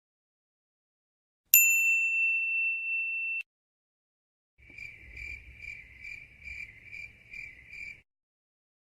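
An editing sound effect: a single bright ding that rings for about two seconds and cuts off abruptly. After a short pause comes a cricket-chirp sound effect, the stock 'awkward silence' gag. It has eight evenly spaced chirps, about two to three a second, over a faint low rumble.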